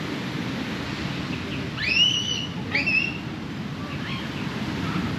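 Steady wash of ocean surf and wind. About two and three seconds in, two short rising whistle-like calls cut through.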